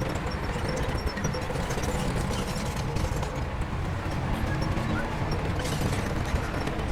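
Heavy diesel earthmoving machinery running steadily, a continuous low engine rumble.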